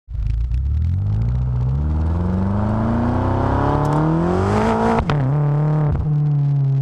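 BMW F10 M5's twin-turbo V8 through a Supersprint rear-muffler exhaust, its note climbing steadily for about five seconds as the revs rise. The throttle is then let off with a sharp crack, and a second crack follows a second later, before the note settles lower and slowly falls.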